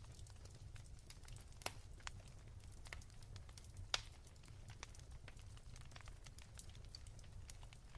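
Wood fire crackling softly: scattered small pops over a low steady hum, with two sharper pops about two and four seconds in.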